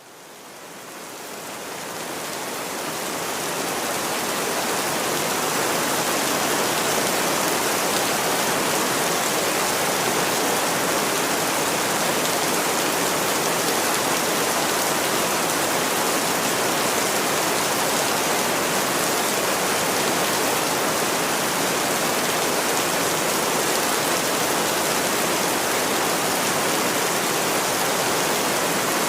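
Steady rain, an even hiss with no single drops standing out, fading in over the first few seconds and then holding level.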